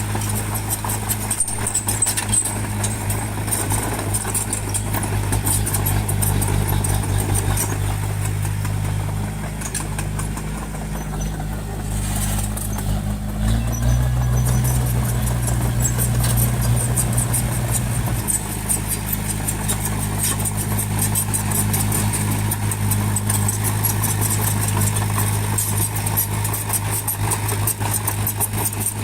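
Heavy earthmoving machine's engine running steadily. About halfway through, its note rises and strengthens for a few seconds, then drops back to the earlier steady running.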